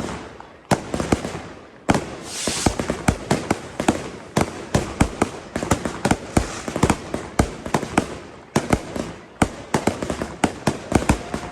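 Fireworks and firecrackers going off in a dense, irregular barrage of bangs, several a second, with a burst of hiss about two seconds in.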